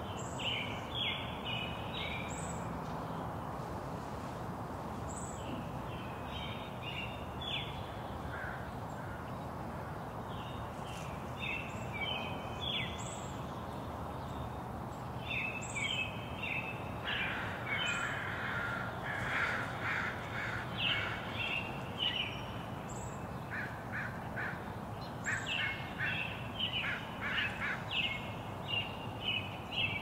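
Wild birds calling: bunches of quick repeated calls, busiest in the second half, with a short high note recurring every two or three seconds, over a steady background rush.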